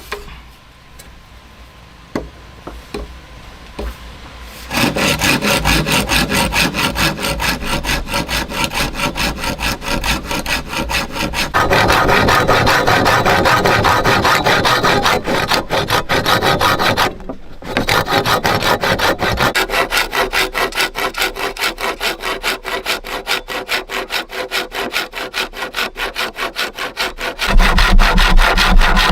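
Hand saw cutting through wood in quick, steady back-and-forth strokes, about three a second. The sawing starts about five seconds in and stops briefly partway through.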